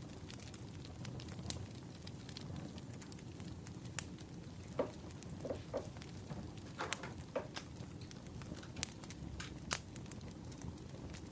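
Wood fire burning, with irregular crackles and sharp pops over a low steady rumble.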